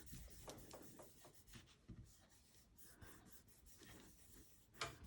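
Faint rubbing and light tapping of cardstock being pressed down onto a wet, inked stamping block, with a slightly sharper tap near the end.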